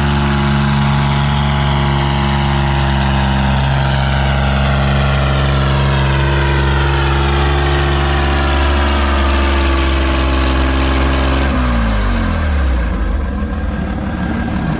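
Farmall 460 tractor engine running hard under load while pulling the sled. About eleven and a half seconds in, its pitch drops sharply as the engine bogs down and the tractor is pulled to a stop.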